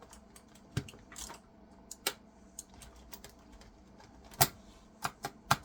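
Scattered clicks of a keyboard's keys being pressed and a keycap being pushed and wiggled onto its switch, some seven clicks in all: the loudest about four and a half seconds in, and three in quick succession near the end.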